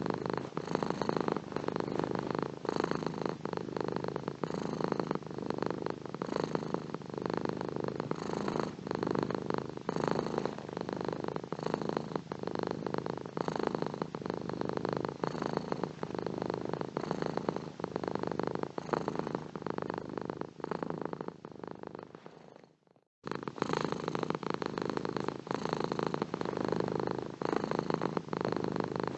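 Domestic cat purring steadily in a close, continuous rumble. About three-quarters of the way through it fades out to a moment of silence, then starts again suddenly, like a loop being restarted.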